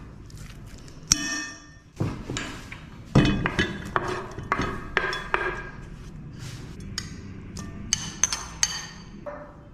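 An irregular series of sharp clinks and knocks of hard objects, about a dozen, many leaving a short ringing tone. The loudest strike comes a little after three seconds in.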